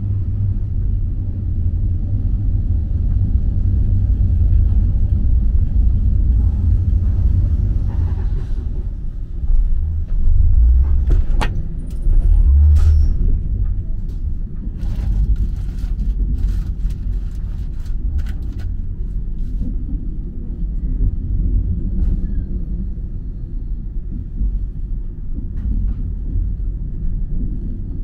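Sleeper train rolling slowly on the rails, heard from inside the coach as a steady low rumble. From about a third of the way in, a run of sharp clicks and a brief high squeal come as the wheels cross the points of a track area.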